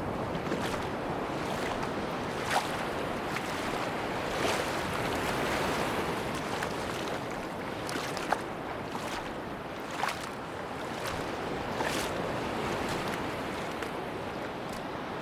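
Sea surf washing on a beach, a steady rush with a scattering of short sharp clicks and splashes through it.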